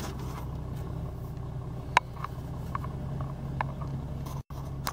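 Dodge pickup's 5.9 Cummins turbo diesel idling steadily, heard from inside the cab, with a few light clicks and a brief drop-out of the sound near the end.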